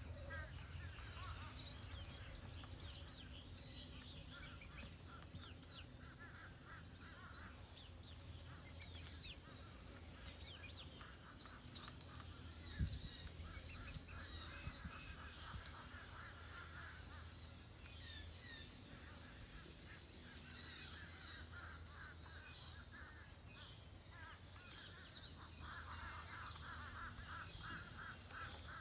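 A mixed flock of backyard chickens clucking in runs of repeated calls lasting a couple of seconds each, with a small bird's short, high, rapid trill heard three times and a single thump about thirteen seconds in.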